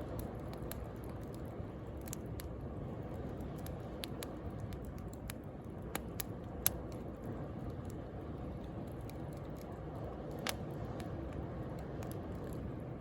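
Wood bonfire crackling with scattered sharp pops, the loudest about six and seven seconds in and again near ten and a half seconds, over the steady low wash of sea waves.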